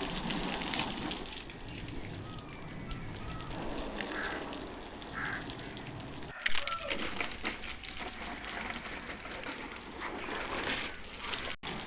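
Water from a garden hose splashing on a car's body, a steady hiss, with a bird's short falling chirps every few seconds. The sound breaks off abruptly about halfway through and again near the end.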